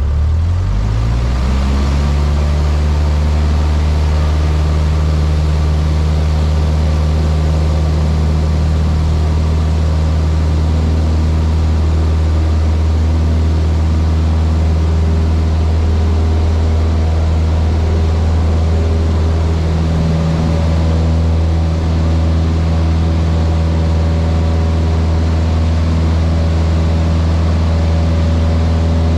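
Cessna 152's Lycoming O-235 four-cylinder engine and propeller, speeding up over the first two seconds as power is added, then running loud and steady.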